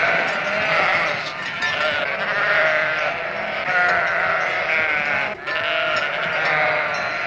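A flock of sheep bleating, with many wavering calls overlapping one another without a break.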